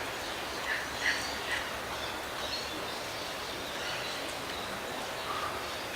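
Faint bird calls, a few short chirps in the first second and a half, over steady outdoor background noise.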